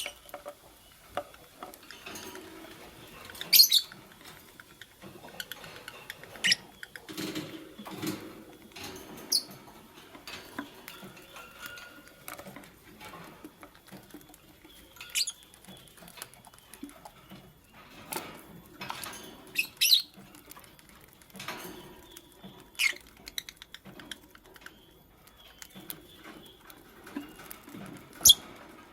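Fischer's lovebirds giving short, sharp chirps every few seconds over a steady scratching, rustling patter of small movements.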